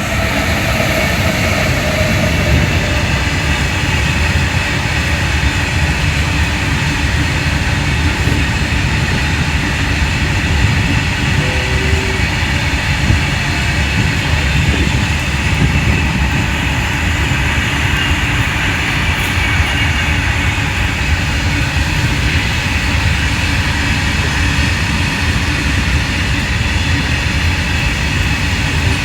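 Freight train of BOXN open wagons rolling past, a steady loud rumble of wheels on rail.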